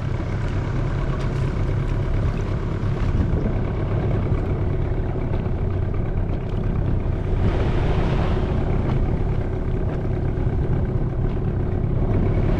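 A dinghy's outboard motor running steadily, with a brief rush of hissing noise about two-thirds of the way through.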